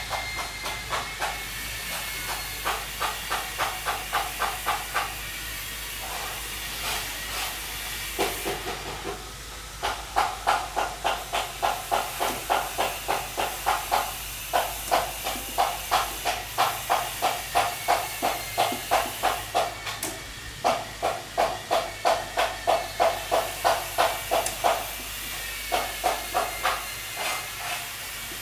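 Rhythmic back-and-forth scraping strokes, about three or four a second, pausing briefly a few times.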